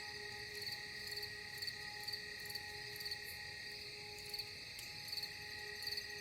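Cricket chirping in short high pulses, about two a second, over a soft steady music drone.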